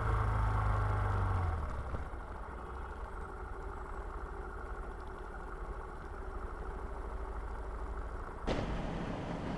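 Motor vehicle engine running with a steady low rumble. It eases off about a second and a half in, and near the end it is cut off abruptly by similar vehicle noise.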